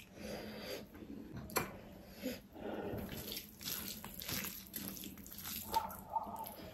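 Close-up wet chewing and mouth smacking while eating pork-trotter pickle with rice, with fingers squishing rice on a steel plate, in short irregular bursts and one sharp click about a second and a half in.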